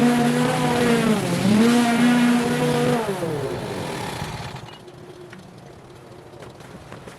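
Small petrol engine of garden power equipment running steadily, dipping in pitch briefly about a second in, then shut off about three seconds in and winding down to a stop. Faint light ticks follow.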